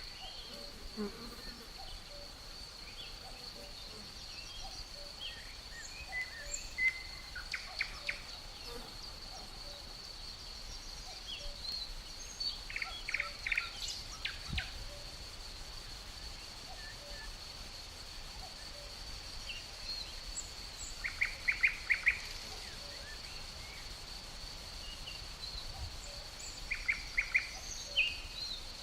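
Nature ambience: an insect's steady, high-pitched drone runs throughout, and birds break in with short bursts of rapid chirps about four times.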